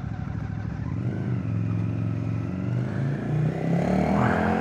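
Water-cooled 800 cc V-twin engine of a MITT 880 custom motorcycle under way, pulling up through the revs with its pitch climbing and then shifting in steps. A rush of wind noise rises near the end.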